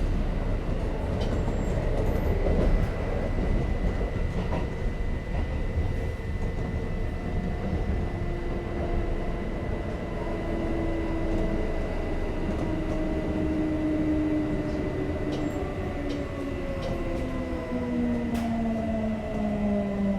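Kintetsu 5800 series electric train running, heard from inside the car: a steady low rumble of wheels on rail. From about halfway through, the motor whine slides steadily down in pitch as the train slows.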